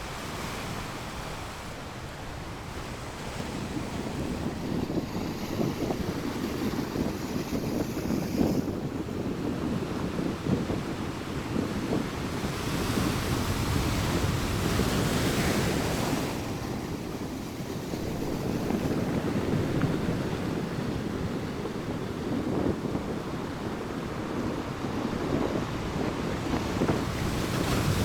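Stormy sea surf: rough waves breaking on shoreline rocks in a continuous rush that swells and eases, with a big surge around the middle and another at the end. Wind buffets the microphone throughout.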